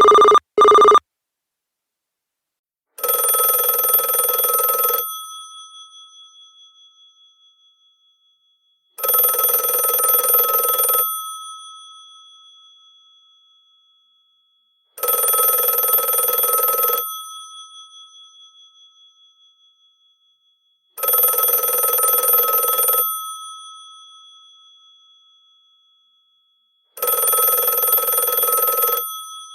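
Old telephone's mechanical bell ringing. After two very short rings at the start, it gives five rings of about two seconds, one every six seconds, and each ring dies away slowly after the clapper stops.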